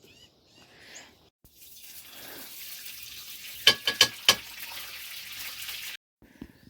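A steady hiss, with three or four sharp clicks or knocks a little past the middle; it cuts off suddenly near the end.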